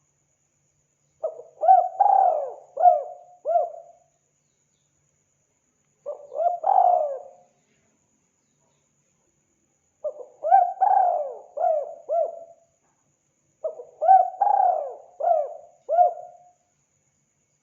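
Spotted dove (tekukur) cooing: four phrases of several rising-and-falling coos each, about a second in, around six seconds, around ten seconds and around fourteen seconds, the second phrase shorter than the rest.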